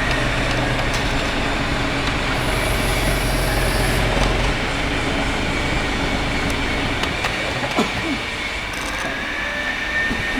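Heritage railway train running along the track: a loud, steady rumbling noise. A thin high squeal comes in near the end.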